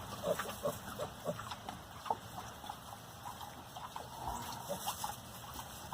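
A sow and her day-old piglets grunting: a string of short grunts and squeaks at irregular intervals.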